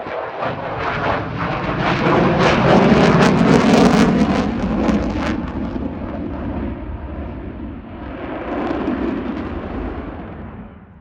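An F-15QA twin-engine fighter jet flying a display pass. Its engine noise swells to a loud, crackling peak about three to four seconds in, then eases off. It rises again briefly near the nine-second mark before dying away.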